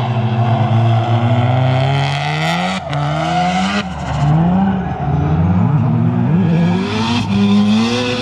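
Drift cars' engines revving up and down over and over, the pitch climbing and dropping several times as the throttle is worked through the drift, over a steady haze of tyre and track noise.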